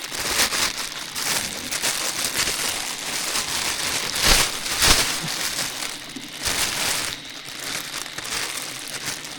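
Close crinkling and rustling handling noise, with two louder sharp cracks about four and five seconds in.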